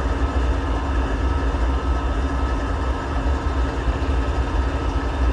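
Diesel locomotive engine running at low idle: a steady deep rumble with a faint hum above it.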